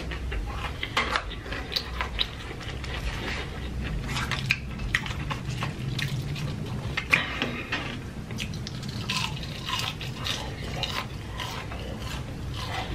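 Close-miked chewing of battered fried onion rings, with many short wet mouth clicks and smacks scattered irregularly throughout.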